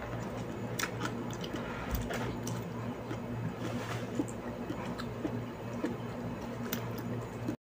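Close-up wet chewing and mouth sounds of a person eating a hot dog, with scattered small clicks over a steady low hum. The sound drops out for a moment near the end.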